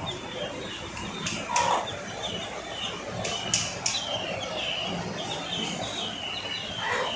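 Birds chirping in quick, repeated short calls, with a few sharp clicks.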